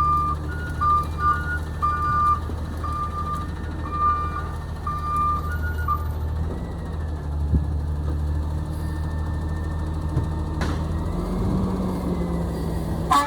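Garbage truck's diesel engine running while its reversing alarm beeps, about three beeps every two seconds, then the alarm stops about halfway through. Two sharp clacks come near the end.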